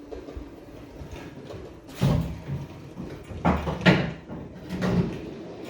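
Several heavy clunks and knocks of a steel leaf spring being wrestled into position against the truck's frame and axle, bunched about two seconds in and again between three and a half and five seconds in.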